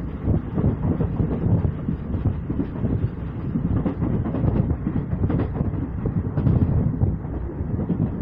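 Train running on the rails, heard from on board: a steady low rumble of wheels on track with scattered clacks.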